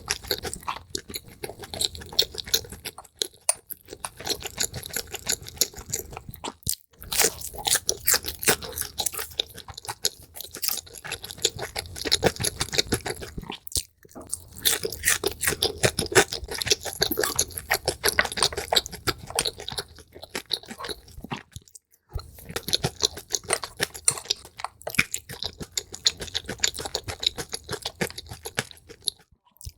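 Close-miked chewing and crunching of food, sped up, as a dense run of rapid crisp crackles. There are brief near-silent breaks a few times along the way.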